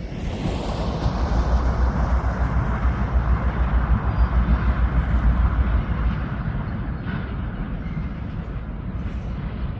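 Diesel freight train passing close by: a loud rumble of the locomotive and rolling wheels that swells about a second in and eases off after about six seconds.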